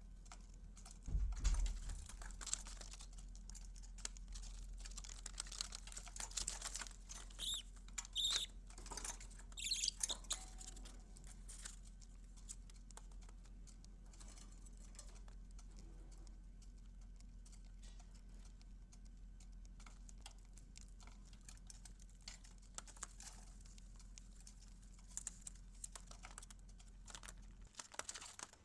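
Light scratching and clicking as a budgie chick moves about, with a few short, high chirps around eight to ten seconds in and a low knock about a second in, over a steady low electrical hum.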